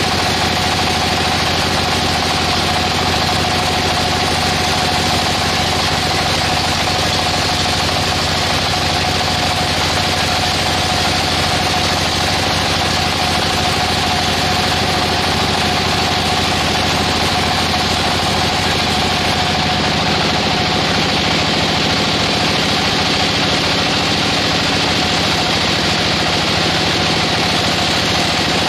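Sawmill machine running steadily, a constant mechanical drone with a steady whine that does not change.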